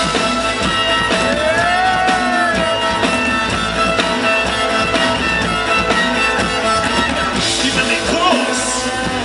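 Rock band playing live: a dense, loud instrumental passage over a steady drum beat, with a gliding melodic line about two seconds in.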